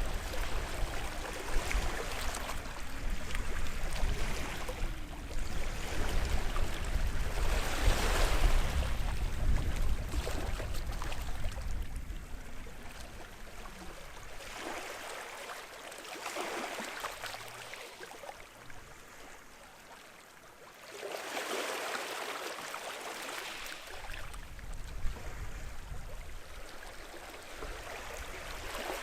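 Small sea waves washing up on a beach, each wash swelling and fading every few seconds. A low rumble lies under the first half, drops away about halfway through, and returns near the end.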